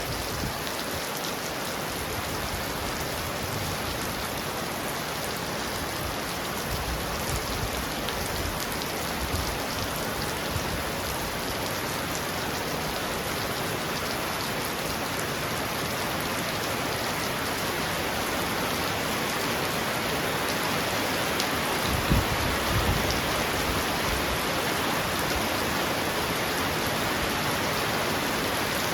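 Heavy rain falling steadily on a roof, a dense even hiss, with a brief low rumble about three-quarters of the way through.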